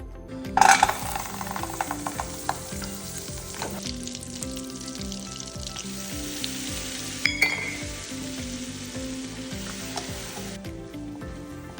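Food dropped into hot oil in a pan, sizzling and crackling: the sizzle starts suddenly about half a second in, flares again briefly about seven seconds in, and dies away near the end.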